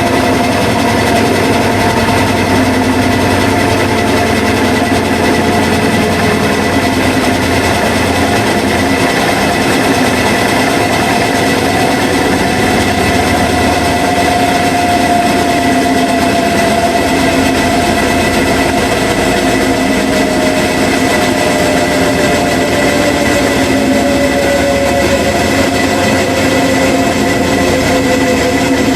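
Washing machine running with a loud, steady mechanical drone. Its motor whine falls slowly in pitch over the second half.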